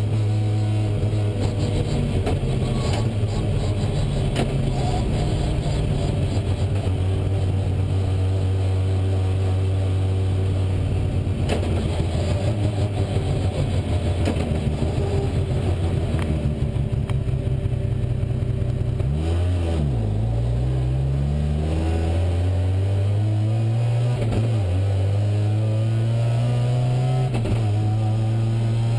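A rally car's engine heard from inside the cabin, running at steady revs, then dropping sharply about two-thirds of the way through and climbing again with a gear change.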